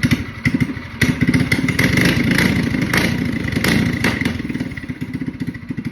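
Predator 212 single-cylinder four-stroke engine on a minibike running through a short open header, with a rapid even firing pulse. About a second in it is revved up, with a few sharp pops, and it settles back toward idle near the end.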